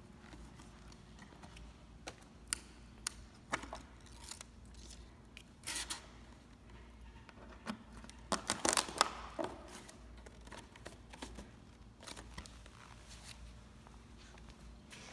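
Corrugated cardboard display parts being handled and folded: scattered taps and clicks, a short scraping rustle about six seconds in, and a denser burst of rustling and clicks around nine seconds in.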